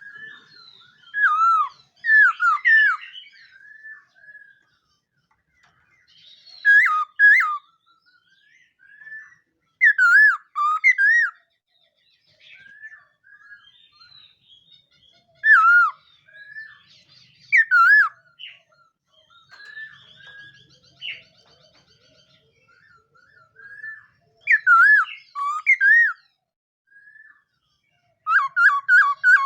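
Laughingthrush singing: loud, clear whistled phrases of swooping, slurred notes, given in short bursts every few seconds with softer chirps in between.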